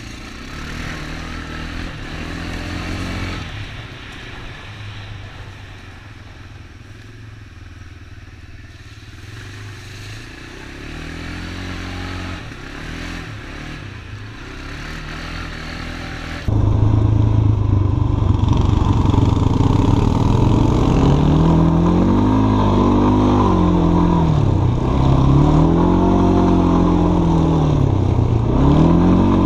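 ATV engine running under way, at first lower and quieter, then suddenly louder a little over halfway through, with its pitch rising and falling again and again as the throttle is opened and eased off.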